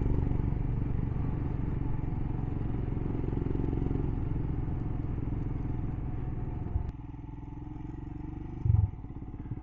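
Motorcycle engine running on the road, with a steady note; about seven seconds in, the sound suddenly drops and gets quieter, and there is a brief low thump near the end.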